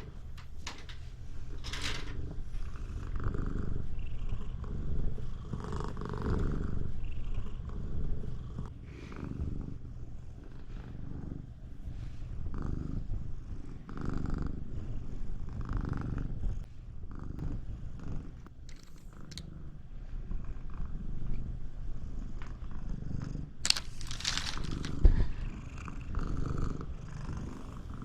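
Siamese cat purring very loudly, swelling and fading about every two seconds with its breathing. A couple of sharp clicks come near the end.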